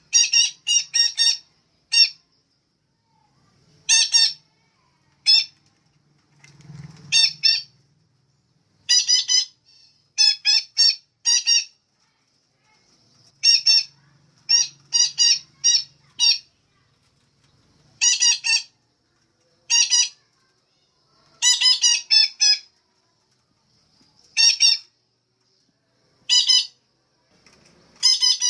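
Female betet parakeet calling: short, shrill, high-pitched calls in quick runs of one to four, repeated every second or two.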